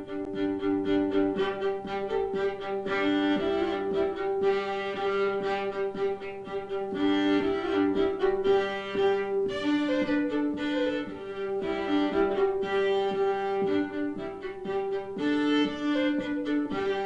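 Violin playing a melody over a steady held low note.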